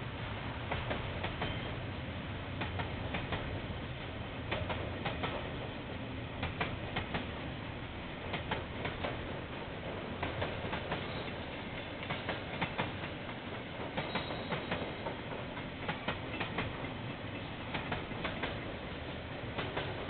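KiwiRail train rolling past, a steady rumble with groups of sharp clicks as the wheels pass over rail joints, picked up by a security camera's microphone.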